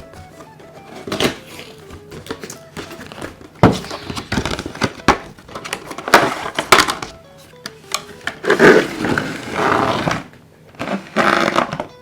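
Cardboard box and wrapping being opened and handled, with irregular rustling, crinkling and sharp clicks in several bursts. Light background music plays underneath.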